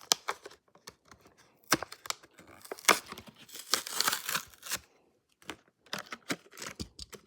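Cardboard and plastic blister packaging of a Hot Wheels die-cast car being torn and crinkled open by hand, in irregular crackles and rips that are densest in the middle.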